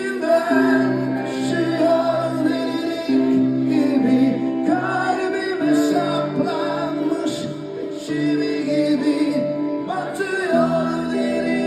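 Live band music with singing voices over sustained chords, from a concert performance of a pop-rock song.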